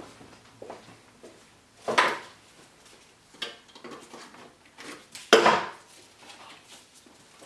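Hand tools clattering on metal in an engine bay: two loud clanks, about two seconds and five seconds in, with lighter clicks between.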